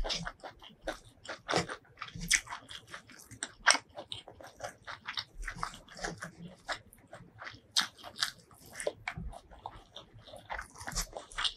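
Close-miked eating of rice and duck curry by hand: chewing with wet mouth smacks, plus fingers squishing rice into the curry, a quick, irregular run of short clicks and smacks.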